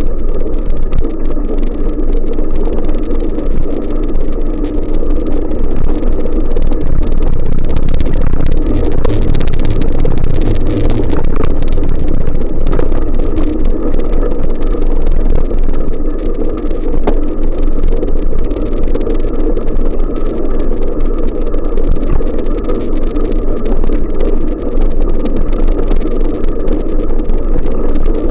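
Steady, loud wind noise buffeting the microphone on a moving bicycle, deep and rumbling, growing briefly hissier about nine to eleven seconds in.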